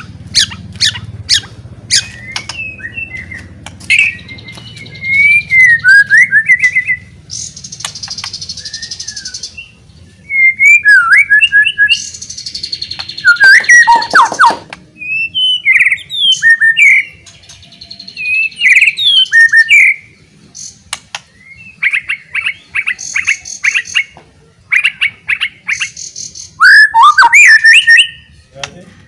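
White-rumped shama (murai batu) singing loudly: varied whistled phrases mixed with sharp clicks, rapid trills and harsh buzzy notes, in bursts with short pauses.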